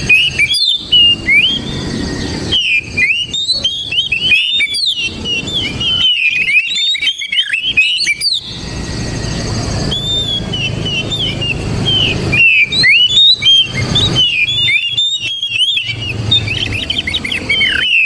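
Oriental magpie-robin singing: rapid, varied whistled notes in phrases of a second or two with short breaks between them. A low background rumble sits under the song.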